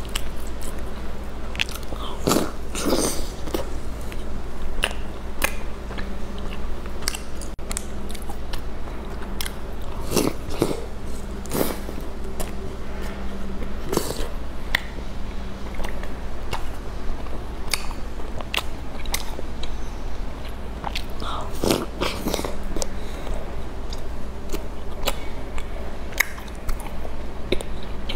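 Puffed rice bar being bitten and chewed: repeated crisp crunches and crackles, with a few louder bites about 2, 10, 14 and 21 seconds in.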